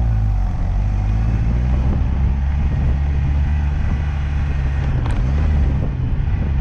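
Liege SS sports car's engine running steadily under way, its note dipping and rising briefly about five seconds in.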